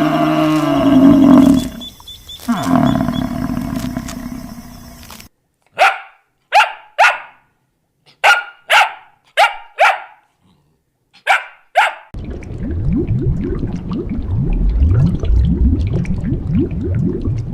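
A dog barking: about ten short, sharp barks in small groups. Before it comes a loud, low animal call lasting several seconds, and after it a low, rapid, rhythmic rumble.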